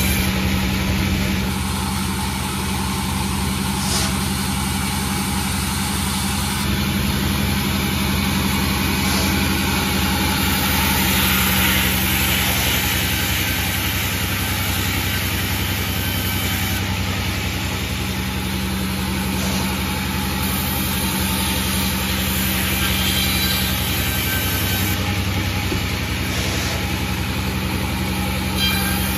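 Sawmill engine running steadily with a low, even hum.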